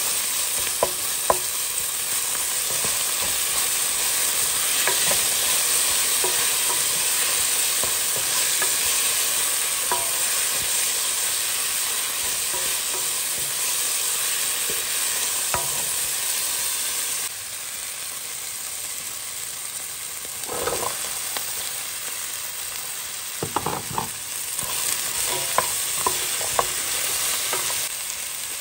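Chicken and vegetables sizzling in a pot as they are stirred with a wooden spoon, with scattered knocks and scrapes of the spoon against the pot. The sizzle quietens about two-thirds of the way through.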